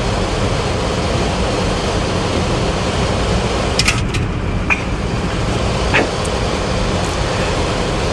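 Steady rushing cockpit noise of a Boeing 737-400 on final approach, airflow and engine noise with landing gear down and flaps at 30. A few short clicks sound around the middle.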